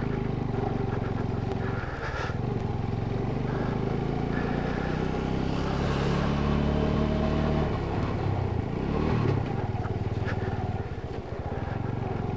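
Motorcycle engine running in first gear at low speed, pulling steadily with a slight rise in pitch midway, as it crawls over a snowy, icy road.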